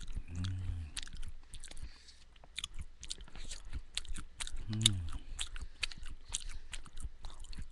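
A person chewing homemade granola of oats, almonds and sunflower seeds close to a headset microphone: a run of quick, sharp crunches, with two short hums of the voice, one about half a second in and one near five seconds.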